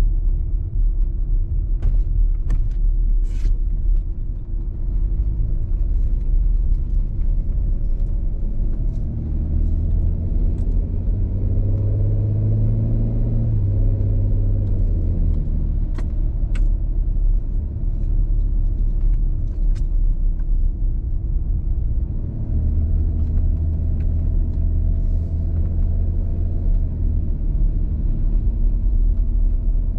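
Porsche Cayenne towing a small camper trailer at low speed: steady low engine and road rumble, the engine note swelling around the middle and again later, with a few sharp ticks and knocks from bumps.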